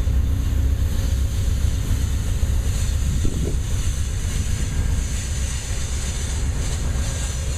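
Passenger train cars rolling slowly past at walking pace, a steady low rumble.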